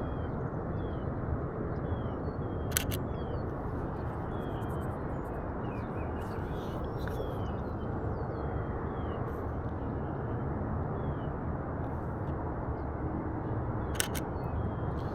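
Canon EOS RP camera shutter clicking twice, about three seconds in and again near the end. Each release is a quick double click. Underneath run a steady outdoor rumble and repeated short, falling bird chirps.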